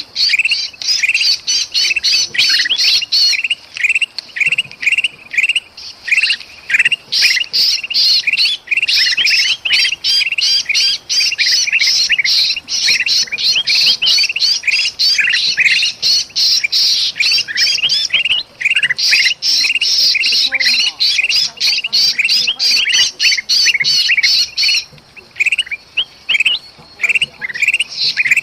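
Kutilang emas bulbuls calling noisily, agitated harsh calls mixed with the distress calls of a trapped bulbul (kejepit). The notes come in quick succession, several a second, with a few brief pauses.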